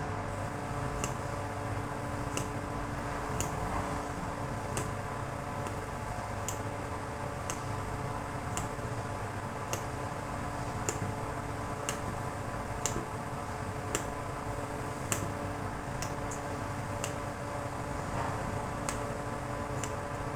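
Sharp, regular clicks about once a second over a steady hum.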